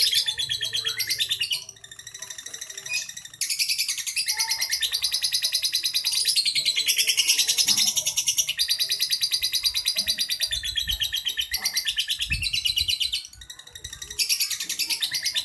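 Lovebird singing its long chattering 'ngekek' song: high chirps repeated many times a second in long unbroken runs, broken by two short pauses, about two seconds in and again about two seconds before the end.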